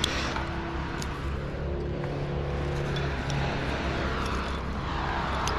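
A large engine running steadily at a low pitch, with a few sharp clicks over it.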